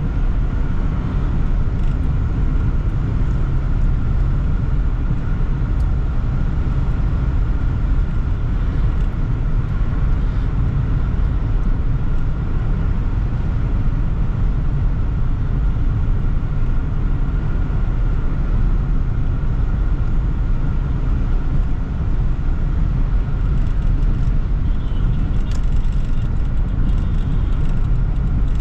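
Steady driving noise from inside a moving Toyota Sprinter AE110: engine, tyre and road rumble at an even level.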